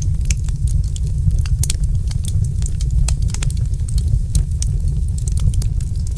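Wood fire in a fireplace crackling, with many irregular sharp pops and snaps over a steady low rumble of the burning fire.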